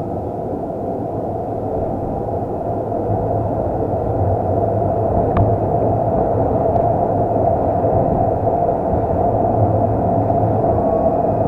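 Tram running along its track, heard from inside the passenger car: a steady rolling rumble that gradually grows louder over the first few seconds, with two brief clicks around the middle.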